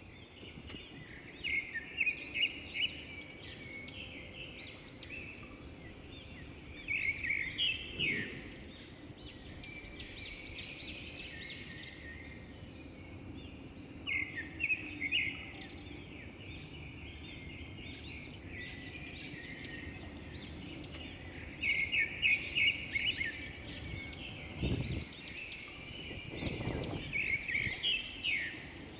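Small birds chirping in quick clusters of high notes that come and go every few seconds, over a steady low background hum. Two brief low rumbles come near the end.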